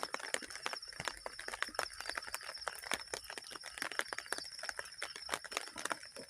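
An irregular patter of water drops, many small sharp ticks a second, with a steady high insect trill going on underneath.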